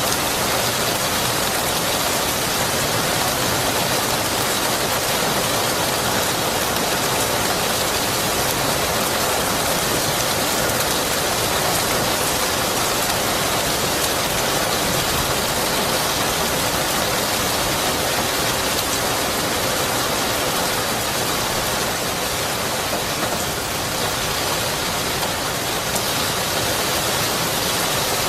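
Steady heavy rainfall, an even hiss of rain on surfaces.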